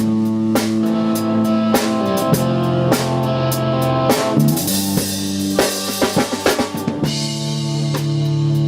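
Instrumental rock jam on drum kit, electric guitar and bass guitar: the drums keep a steady beat of kick, snare and rim hits under held guitar and bass notes, with a run of quicker drum hits about six to seven seconds in.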